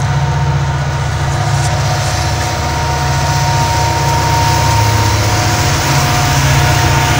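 Canadian Pacific Holiday Train passing: a loud, steady low drone from its diesel locomotive and rolling cars, with a thin steady high whine over it that grows stronger midway.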